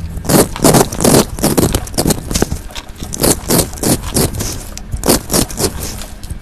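A fidget toy being scraped in quick repeated strokes, about three a second.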